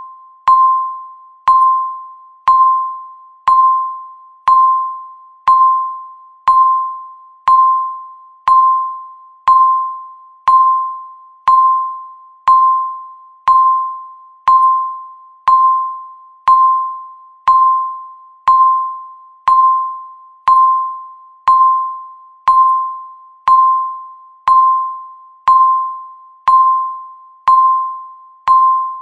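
Countdown timer's tick sound: a short, pitched ding struck once a second in a steady rhythm, each ringing briefly and dying away before the next.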